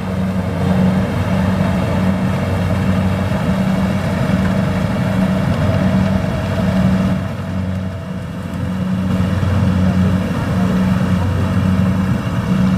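Diesel engine of rice-harvesting farm machinery running steadily, a low drone that pulses regularly.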